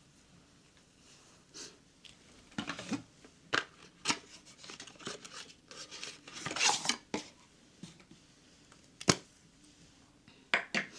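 Small objects being handled: a series of irregular clicks, taps and light clatters, busiest around the middle, with one sharp click later and two more near the end.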